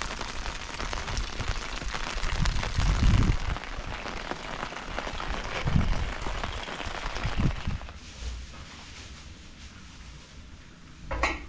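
Rain falling steadily as an even hiss, broken by several loud low rumbles. About eight seconds in, the rain sound fades to a much quieter level.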